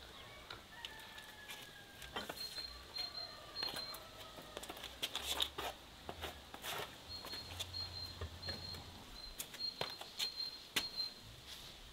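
Songbirds calling: short falling whistled notes and a repeated high chirp. Over them come scattered sharp clicks and taps, bunched together around the middle.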